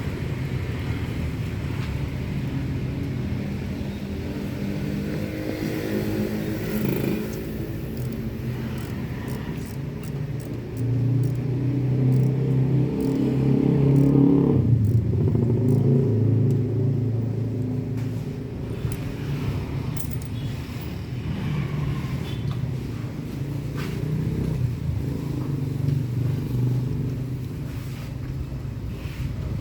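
A car engine running with a steady low rumble. It swells louder from about 11 seconds in and drops back in pitch about 15 seconds in. Scattered light clicks sound through the middle.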